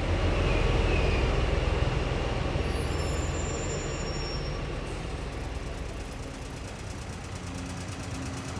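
Train rumbling on the rails, slowly fading, with faint high squeals about three to five seconds in. A low steady hum joins near the end.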